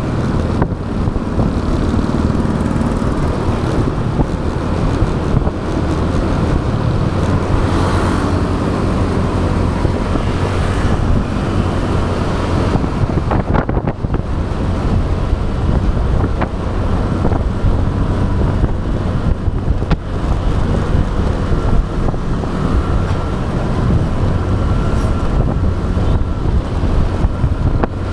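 Motorbike riding along a city road, picked up by a camera mounted on the bike: the steady run of its engine, mixed with wind and tyre rush on the microphone and the noise of surrounding traffic.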